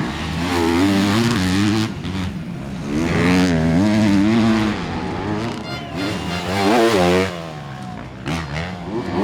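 Motocross bikes' four-stroke engines revving hard, the pitch wobbling rapidly up and down as the throttle works, in several loud stretches with short dips between them.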